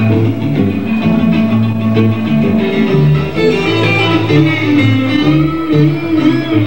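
Live blues band playing an instrumental break: electric guitar leads over a steady bass line, with string bends about halfway through.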